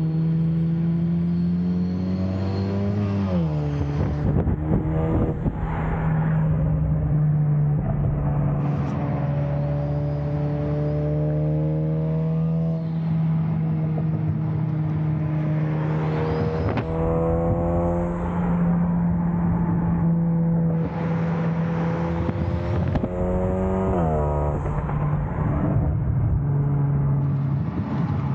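Turbocharged Honda Accord engine running on a new tune, held at a steady speed with a few revs that rise and drop away sharply, about three seconds in, midway and near the end. A faint high whine rides over it at the start, the jet-like turbo sound.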